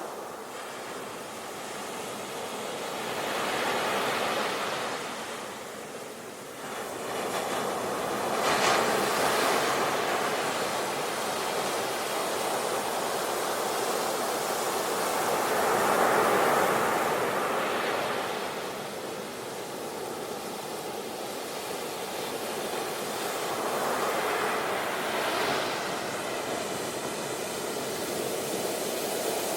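Sea waves breaking on a shore: the surf swells and falls back in surges several seconds apart, with one sharper crash about a third of the way in.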